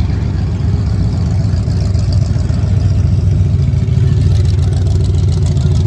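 Car engine running steadily, its sound strongest in the low end.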